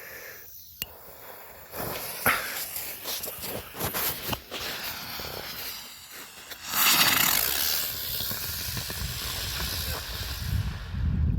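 Helicopter-type smoke chopper firework: a crackling fizz builds for several seconds, then about seven seconds in its motor jumps to a loud, steady hiss as it spins up and climbs, hissing on for a few seconds more.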